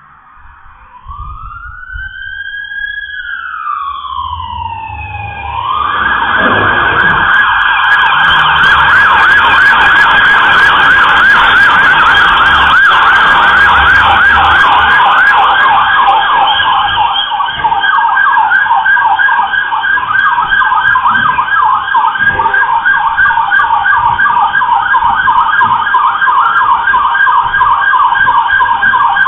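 Police car siren, loud and close: a slow rising-and-falling wail for the first few seconds, then switching about six seconds in to a fast yelping warble that carries on, with a low rumble underneath for a while.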